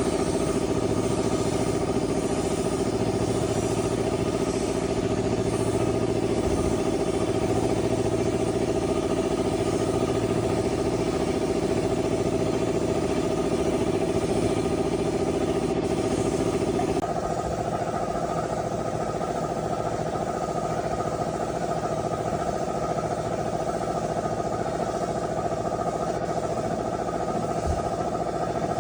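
An engine running steadily, with a slow regular pulse underneath. About seventeen seconds in, its note changes suddenly and it settles a little quieter.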